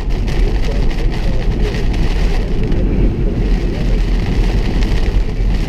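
Steady road and engine noise inside a car driving at highway speed.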